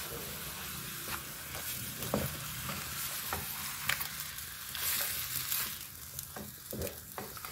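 Raw chicken pieces in onion paste and tomatoes sizzling steadily in a karahi as they begin to cook, while a spatula stirs and scrapes them, with scattered light clicks of the spatula against the pan.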